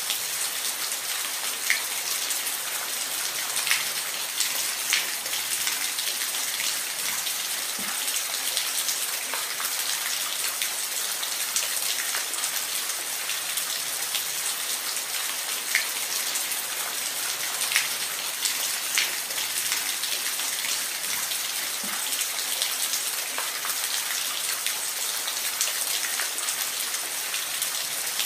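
Steady rain falling, an even hiss with scattered individual drops tapping a surface now and then.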